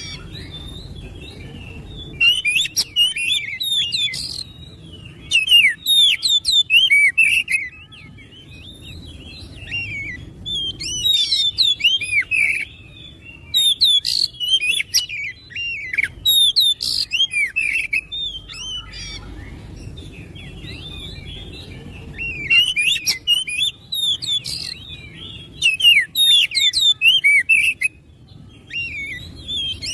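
Oriental magpie-robin (kacer) singing in bursts of rapid, varied whistled phrases, each a couple of seconds long with short pauses between, over a faint low hum.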